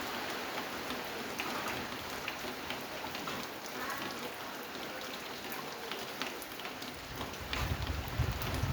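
Steady rain falling, with individual drops ticking on a surface. A low rumble starts building near the end.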